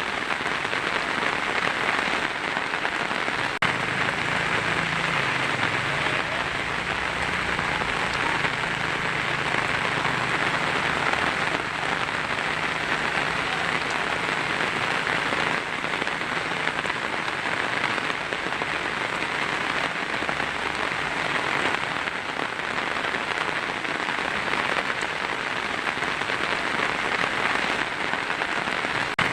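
Heavy rain drumming steadily on a tin roof, an even, unbroken hiss with no thunderclap.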